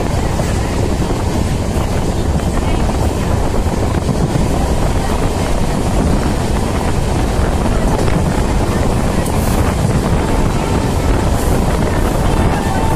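Passenger train running at speed: a steady rumble of wheels on the rails, with wind buffeting the microphone.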